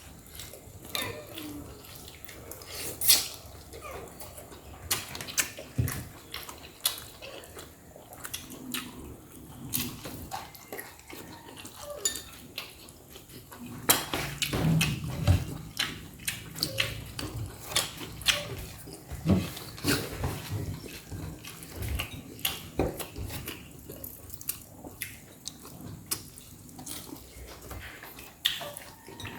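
Close-up eating sounds of a person eating roast chicken: chewing and mouth smacking, with many irregular sharp clicks and taps, busiest around the middle.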